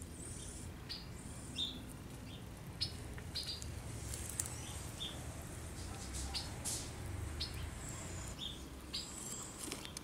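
Small birds chirping outdoors in short, high-pitched calls scattered throughout, over a low background rumble.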